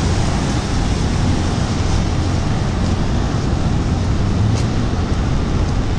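Steady rain and wet-road city traffic noise heard from under an umbrella, with a few faint ticks about halfway through.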